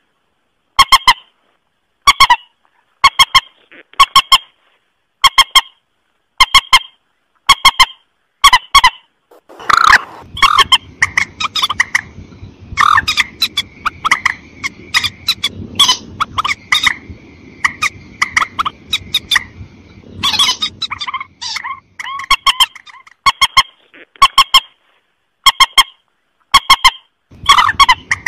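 Recorded calls of the mandar, a rail of the rice fields, played as a hunting lure: short honking calls repeated about once a second. From about a third of the way in to about three quarters, the calling crowds into a faster, noisier stretch before the regular series returns.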